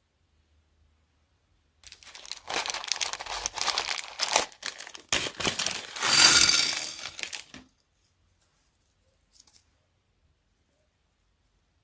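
Plastic bag crinkling and crackling as it is handled for about six seconds, loudest near the end of the handling, then stopping.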